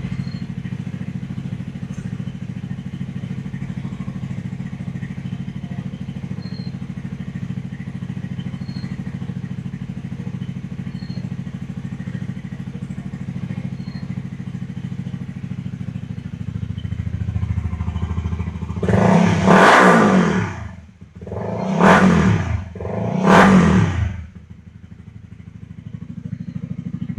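Honda CBR150R single-cylinder four-stroke engine idling steadily through an ARS F1 aftermarket exhaust, then revved three times in quick succession late on before settling back to idle.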